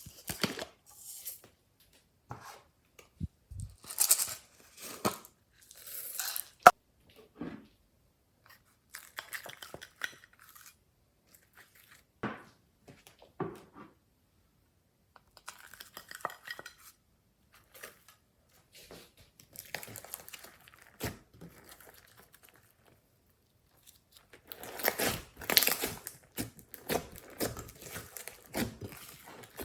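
Glossy slime being handled by hand: irregular sticky crackling and tearing sounds with sharp little clicks and pops, in short bursts with pauses between and a longer, denser stretch near the end.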